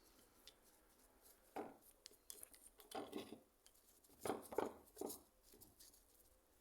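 Small metal parts clinking and knocking against a hard surface in a few short clusters of clatter, the loudest about four and a half seconds in.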